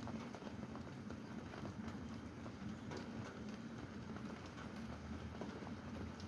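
Steady rain with many separate drops tapping irregularly on a hard surface over a constant low wash of falling water.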